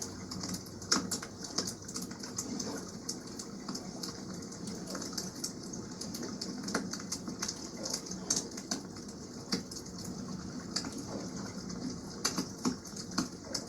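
Wood campfire crackling with frequent sharp pops and snaps, the loudest about a second in, over a steady wash of water.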